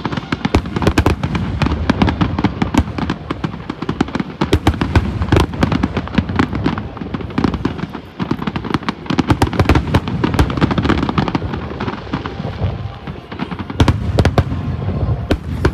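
A fireworks display: a dense, continuous barrage of aerial shells bursting. Sharp bangs and crackling come several times a second over a steady low rumble of booms.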